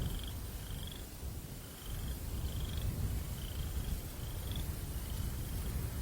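A breeze blowing with a steady low rumble, while a cricket chirps in short, slightly rising pulsed chirps about once a second.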